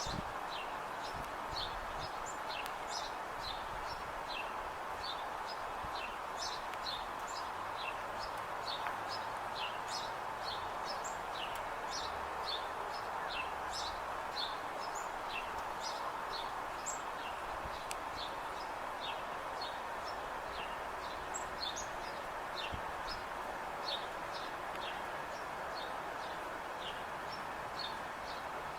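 Small birds chirping: short, falling high chirps, several a second, over a steady background hiss.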